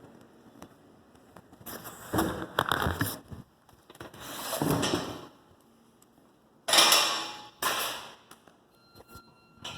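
Hand truck being handled: a series of scrapes and knocks, the loudest starting suddenly about seven seconds in.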